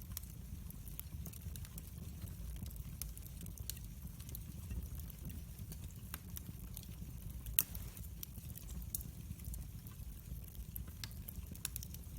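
Wood fire burning in a fireplace: irregular crackles and sharp pops over a low steady rumble, with one louder pop about seven and a half seconds in.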